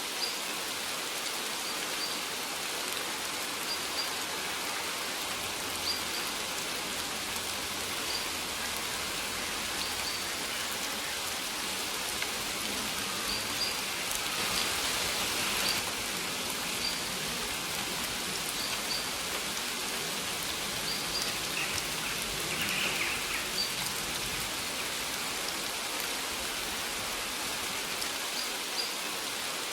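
Steady rain falling on a surface, an even hiss. Short high bird chirps sound every second or two over it, with a brief busier bit of chirping a little after two-thirds of the way through.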